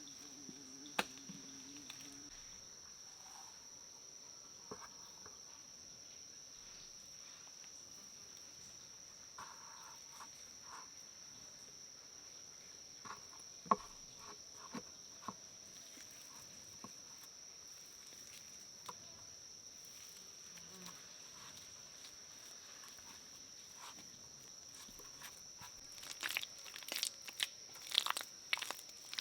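Insects trilling in one steady, unbroken high tone, with scattered faint clicks. Near the end come several bursts of crunching and rustling.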